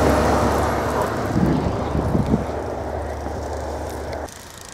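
A vehicle driving past on a snow-covered road, its engine hum and tyre noise slowly fading as it moves away, then dropping off suddenly about four seconds in.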